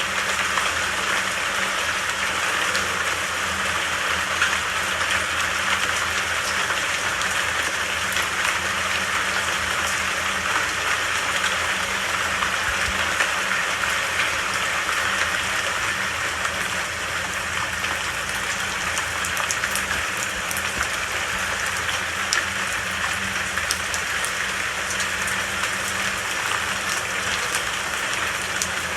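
Steady rain falling, a continuous even hiss of drops with scattered faint ticks.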